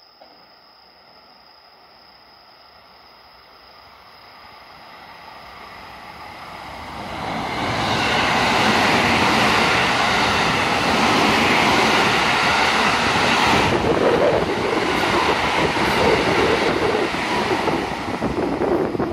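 JR West Special Rapid electric train coming closer and running past at speed. It grows steadily louder over the first several seconds, then holds a loud, steady rush of wheels on rail.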